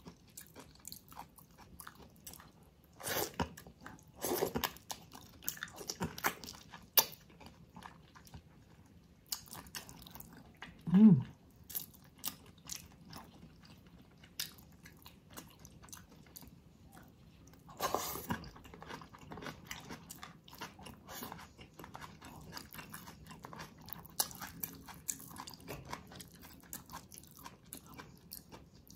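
Close-up eating sounds of spicy braised ox feet and greens: irregular chewing and biting with crisp crunches and sticky mouth clicks. There is a brief, loud, low vocal sound with a falling pitch about eleven seconds in.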